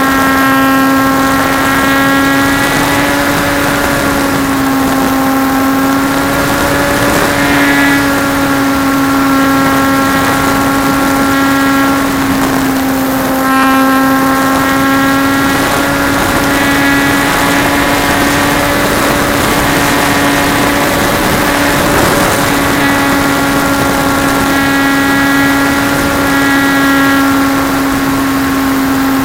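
Trojan T-28 RC plane's motor and propeller droning at a nearly steady pitch, with wind rush, heard close up from a camera riding on the plane. The pitch dips briefly a couple of times as the throttle eases.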